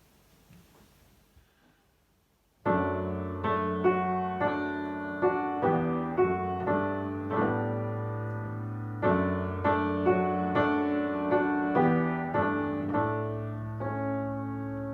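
Near silence, then about two and a half seconds in a solo piano intro to a slow ballad begins. Chords are struck about twice a second over a held bass note.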